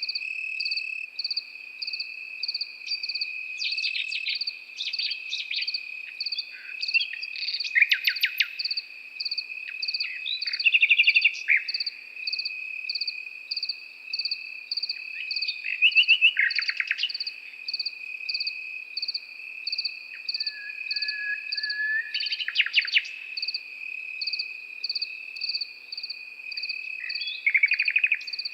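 Nightingale singing in short separate phrases, several of them rapid runs of repeated notes and one a plain held whistle, with pauses between. Underneath, crickets keep up a steady high trill and an evenly pulsed chirping.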